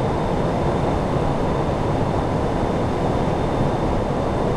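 Steady flight-deck noise of an Airbus A340-600 in flight on approach: an even rush of airflow and cockpit ventilation, with a faint high steady whine.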